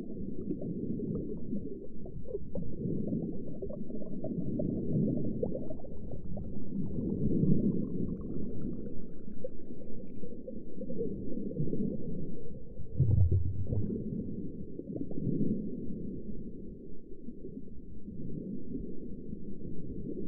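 Muffled underwater ambience: a low, steady rumble of water with slow gurgling swells, and a deeper surge about two-thirds of the way through.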